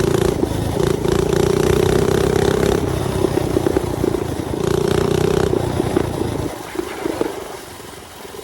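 Mini bike's small engine running at a steady, fairly high speed as it warms back up, then easing off and going quieter about six and a half seconds in.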